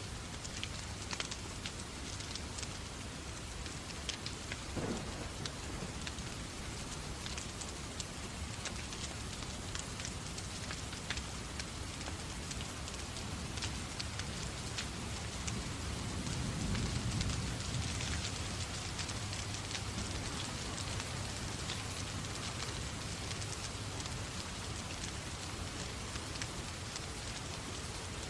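Steady rain ambience with many scattered sharp ticks. A low rumble swells and fades over a few seconds about halfway through.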